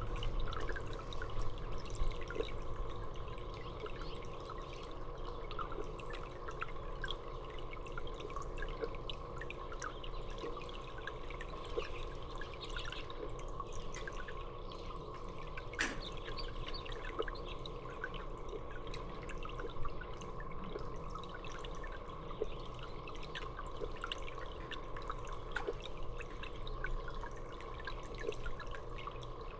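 Water trickling and dripping steadily, with many small drips over a continuous splash.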